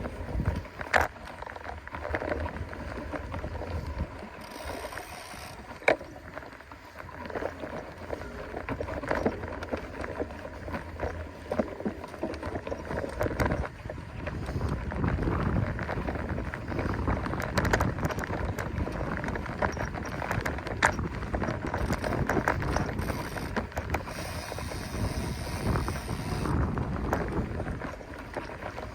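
Mountain bike being ridden across a grassy field: tyres rolling, with frequent small clicks and rattles from the bike, and wind rumbling on the microphone.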